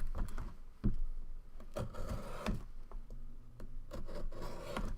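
Cardboard trading-card box being handled and opened: scraping and rubbing with scattered light taps and clicks.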